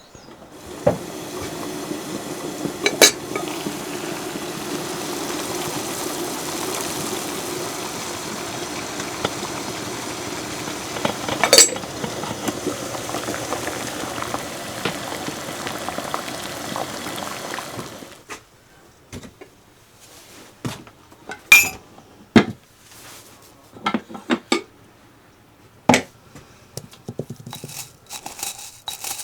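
Kitchen work: a steady rush of water running or pouring for about 18 seconds, with two sharp clinks of a pot or dish, then scattered knocks and clinks of dishes and utensils.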